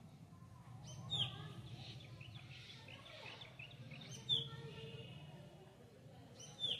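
A bird calling: three sharp chirps falling in pitch, about three seconds apart, with softer twittering between them, over a steady low hum.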